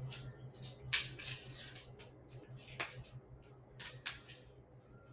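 Light crinkles and rustles of a transparent film dressing's paper border being peeled away by gloved hands, a few short crackles about a second in, near the middle and toward the end. A low steady hum runs underneath.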